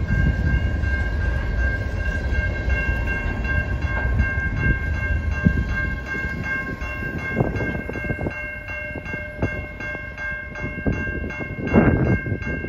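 Loaded freight cars rolling slowly past with a low rumble and scattered wheel clunks, including a louder clunk near the end. Over them, a grade-crossing bell dings steadily and rapidly.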